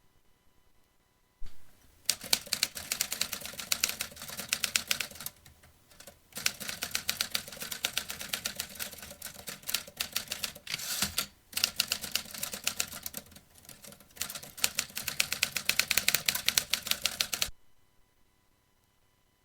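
Vintage typewriter being typed on: a thump, then fast runs of sharp keystroke clacks broken by short pauses. The typing starts about a second and a half in and stops near the end.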